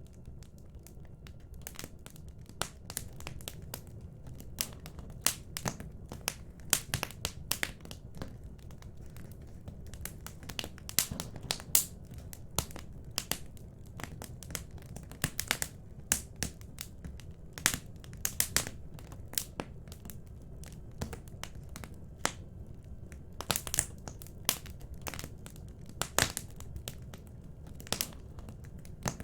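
Wood fire in a fireplace crackling: irregular sharp pops and snaps, several a second at times, over a steady low rumble of the burning logs.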